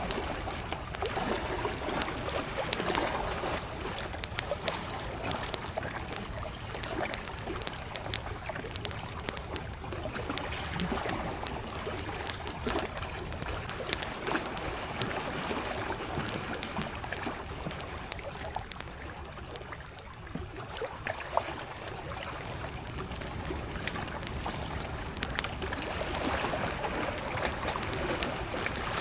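Small lake waves lapping at the shore, rising and falling gently, with a wood campfire crackling and popping in sharp little snaps throughout.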